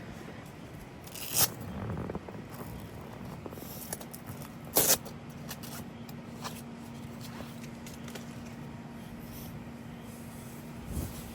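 Two sharp clicks or knocks, the second about five seconds in, with light handling noises; right after the second, a steady low machine hum starts and keeps running.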